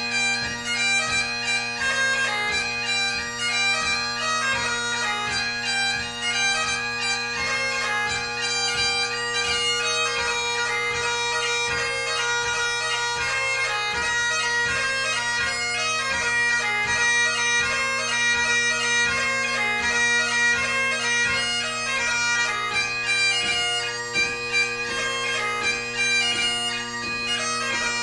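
Great Highland bagpipe played solo in light music (ceol beag): steady drones sound under a quick chanter melody thick with short gracenote ornaments.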